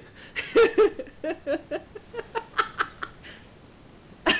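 People laughing: a run of short giggles and chuckles, fading after about three seconds, with another short laugh at the end.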